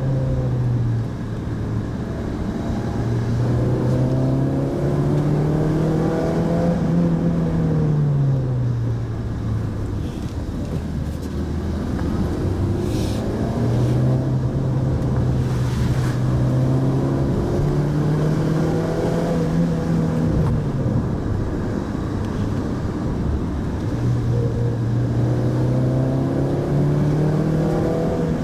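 Pajero Mini's 660 cc four-cylinder engine running under way with road noise, its pitch rising and falling several times as it pulls and eases off.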